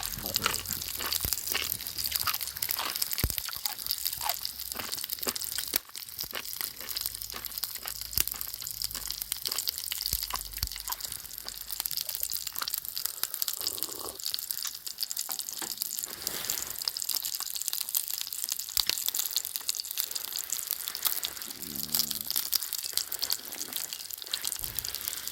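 Wood campfire crackling, a steady hiss scattered with many small sharp snaps.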